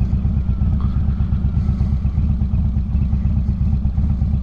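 Harley-Davidson motorcycle's V-twin engine running steadily while riding, a loud low rumble with a fast, even pulse.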